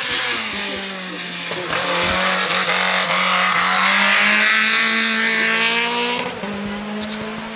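Hill-climb race car passing at full throttle, its engine growing loudest about four seconds in and fading after about six seconds.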